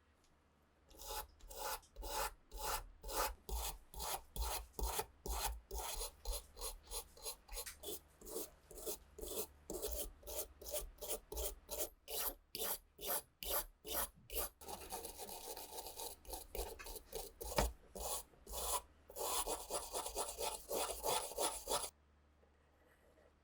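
Hand abrasive work on an old pistol part: quick back-and-forth rubbing strokes, about two to three a second. The strokes start about a second in, run together into a steadier scrape for a while past the middle, and stop suddenly near the end.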